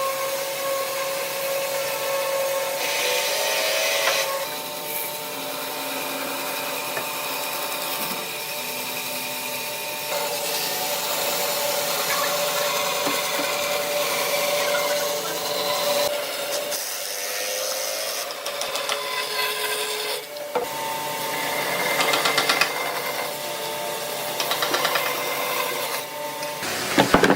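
A tool working wood, scraping and rubbing steadily across a board, with a few steady tones underneath and passages of rapid fine strokes later on.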